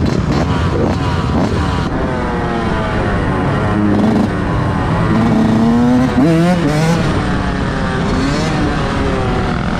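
Several vehicle engines revving at once, their pitches overlapping and rising and falling, with one sharp rev climbing about six seconds in.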